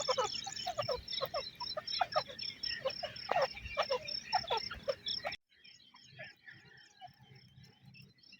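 Birds calling in rapid, overlapping short notes over a steady high pulsing tone. The calls cut off abruptly a little past five seconds in, leaving only faint scattered calls.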